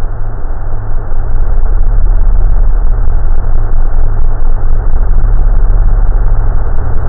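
A loud, steady low rumble with a rough noisy hiss over it, unchanging throughout.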